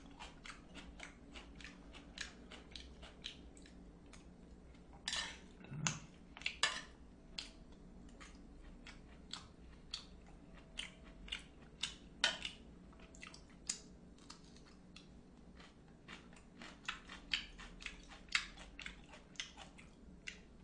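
Close-up chewing of a mouthful of pork cutlet: a steady run of many short, wet mouth clicks, a few of them louder.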